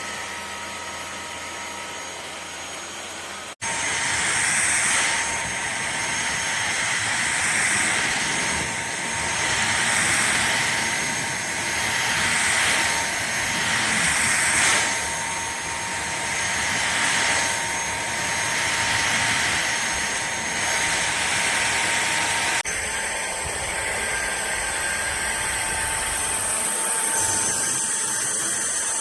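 Fieety cordless stick vacuum running: a steady motor whine over an airy hiss, swelling and dipping every couple of seconds. The sound changes abruptly twice, about three seconds in and again about twenty-three seconds in.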